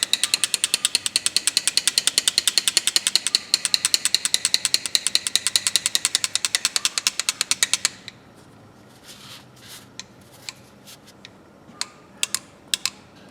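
Pair of old steel pliers worked rapidly open and closed, the jaws and pivot clicking about eight to ten times a second, to free a rusted joint soaked in WD-40 and carburetor cleaner. About eight seconds in the fast clicking stops, and a few slower, separate clicks follow.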